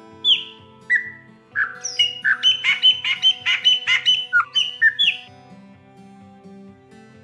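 Chopi blackbird (graúna) singing: a couple of loud down-slurred whistles, then from about a second and a half in a rapid jumble of whistled and squawky notes lasting about three and a half seconds. Soft background music plays underneath.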